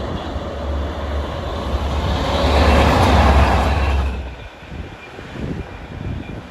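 Locomotive-hauled train passing close by: a deep engine drone with wheel-on-rail noise that builds to its loudest about three seconds in, then drops away sharply just past four seconds.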